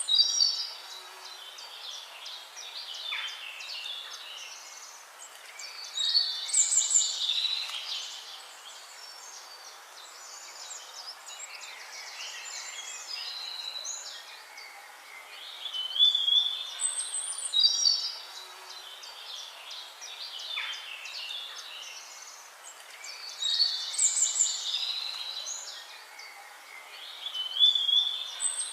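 Songbirds singing and chirping, with clusters of high, quick calls every several seconds over a faint steady hiss.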